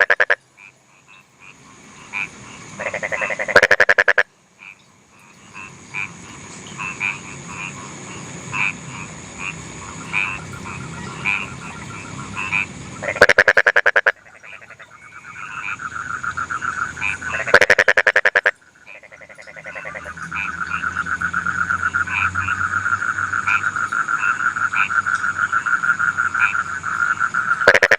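Chorus of paddy-field frogs: several loud, rapid croaking bursts about a second each, scattered short calls, and a long pulsing trill that builds steadily through the second half.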